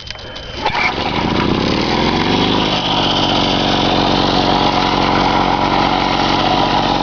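1962 Lawn-Boy Hobby Gardener tiller's small two-stroke OMC engine catching about a second in, its pitch rising for a couple of seconds as it comes up to speed, then running steadily and evenly, a smooth run the owner calls pretty quiet.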